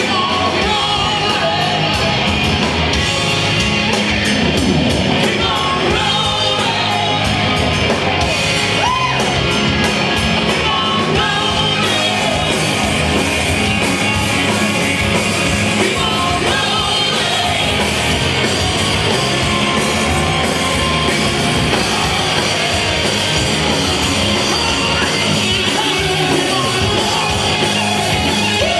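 Live rock band playing loud and steady, electric guitars, bass and drums with some singing.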